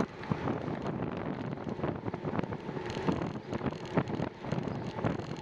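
Wind buffeting the microphone of a camera carried on a moving bicycle, a steady rushing noise with scattered clicks and rattles from the ride.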